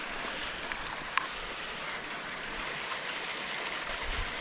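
Steady rush of a low-flowing creek's running water, with one faint click about a second in.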